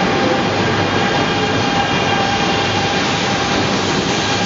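Shinkansen bullet train moving along a station platform: a steady running rumble with a thin, constant whine riding over it.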